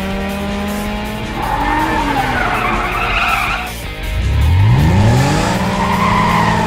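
Cartoon car sound effects: an engine running steadily, a tyre screech from about a second and a half in lasting a couple of seconds, then the engine revving up in a rising glide about four seconds in and settling back to a steady run.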